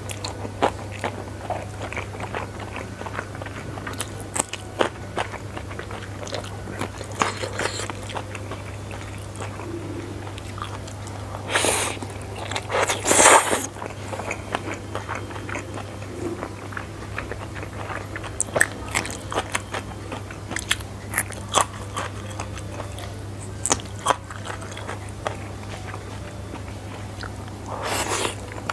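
Close-miked eating sounds of a man chewing a mouthful of stir-fried flat rice noodles with whole green bird's-eye chilies: wet chewing, lip smacks and small crunches. A couple of louder noisy moments come about twelve and thirteen seconds in, and he slurps in more noodles near the end.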